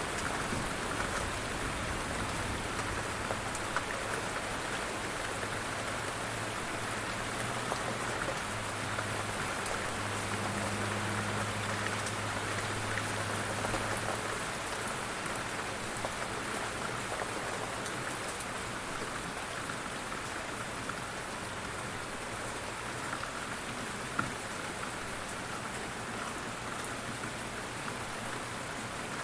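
Steady rain falling on a surface, an even patter of drops. A low steady rumble sits under it for the first half and stops about halfway through.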